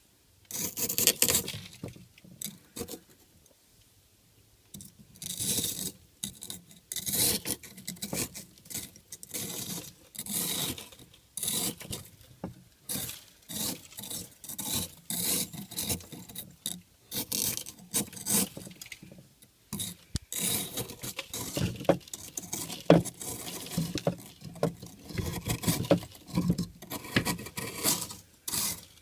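Built-up ice being scraped off an old mini fridge: repeated, irregular scraping strokes, with a pause of a few seconds near the start.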